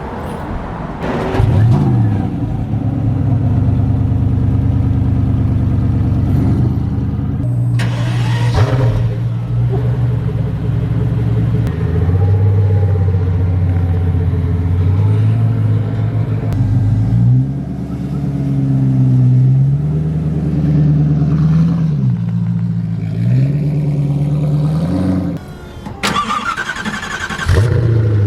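A car engine starts with a quick rise in revs, then idles, its pitch stepping up and down several times as it is blipped.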